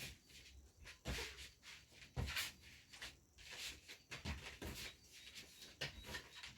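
Light, irregular clicks and taps of hands handling and placing LED backlight strips inside an opened TV.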